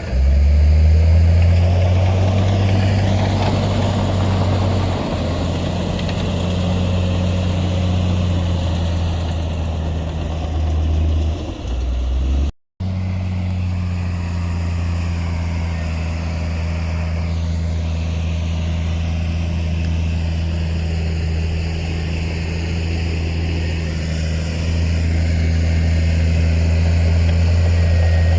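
Heavy diesel engine of earthmoving machinery running at a steady, low pitch. It cuts out completely for a moment about halfway through, then carries on unchanged.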